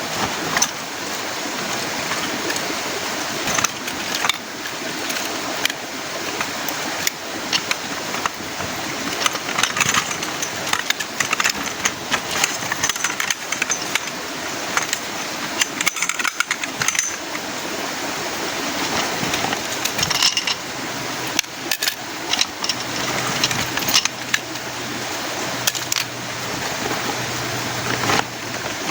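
Heavy rain falling steadily, with many sharp taps and clicks from drops striking nearby surfaces.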